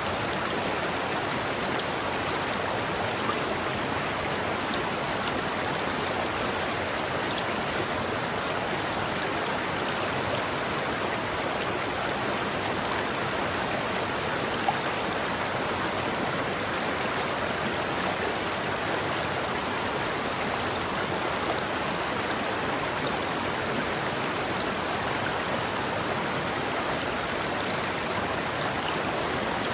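River water flowing: a steady, even rushing of running water.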